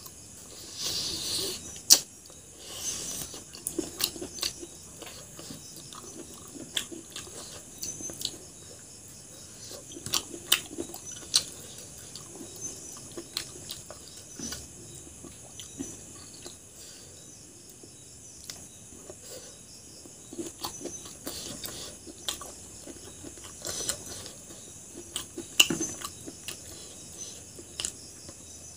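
A person chewing and smacking mouthfuls of rice and chicken gizzard curry eaten by hand, with scattered short clicks and squishes of fingers working wet food on the plate. The sharpest clicks come about two seconds in and again near the end.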